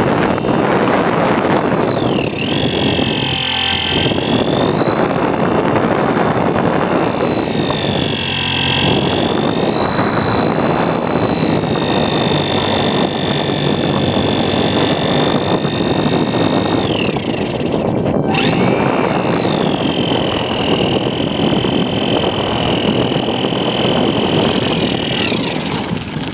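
Radio-controlled model airplane in flight, heard from a microphone taped under its belly: a high motor-and-propeller whine that dips and rises in pitch with the throttle over steady wind rush. The whine cuts out for a moment about two-thirds of the way through, then comes back.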